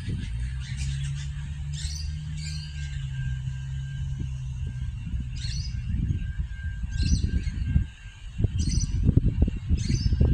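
A bird giving short chirping calls every second or two over a low outdoor rumble. A steady low hum holds through the first half, and the rumble turns gusty and louder in the second half.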